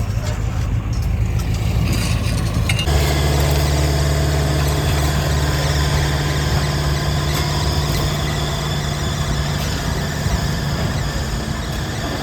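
Heavy diesel construction machinery running. About three seconds in the sound changes suddenly to a stronger, steady low engine drone, with a high squealing hiss above it.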